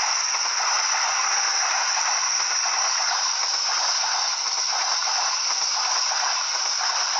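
Passing train heard close by: a steady, loud hiss with a fine rattle of wheels running on the rails.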